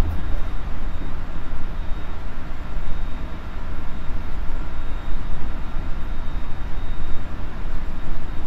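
Running noise of a JR Central 373 series electric multiple unit heard aboard its motor car KuMoHa 373-8: a steady low rumble of wheels on track with a faint high whine, the train in motion.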